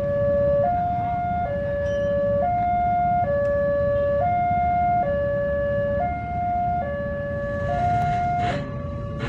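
Electronic warning alarm of a railway level crossing sounding a steady two-tone alternation, a lower and a higher tone each held for under a second, as it signals an approaching train. Low rumbling traffic noise runs underneath, and a rattling clatter comes in near the end.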